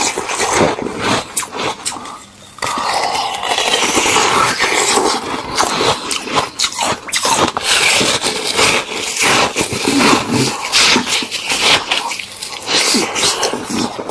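Close-miked crunching and chewing of ice with juice frozen inside, a dense run of sharp cracks and crunches.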